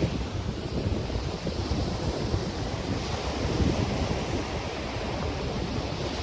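Ocean surf washing onto the beach, with wind rustling palm fronds and buffeting the microphone in a low, gusty rumble.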